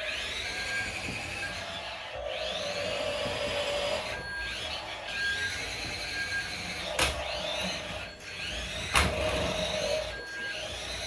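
Electric drive motor and gears of a remote-controlled tipper truck whining, rising and falling in pitch as it is throttled up and eased off in bursts. Short high beeps repeat at even spacing, and two sharp knocks sound about 7 and 9 seconds in.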